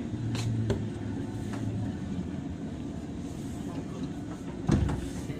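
Interior running sound of a JR 103-series electric train's motor car: a steady rumble of wheels and traction motors with a low hum early on, a few sharp clicks, and one heavy thump near the end.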